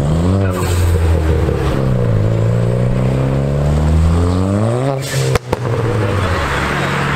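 Car engine revving: its pitch rises and dips, then climbs steadily for a few seconds under acceleration. It breaks off sharply about five seconds in, and an engine then runs on at a steadier pitch.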